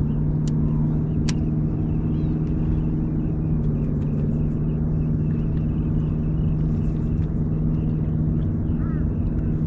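Electric trolling motor holding the boat on spot-lock, running as a steady low hum at even level. Two sharp clicks sound about half a second and just over a second in.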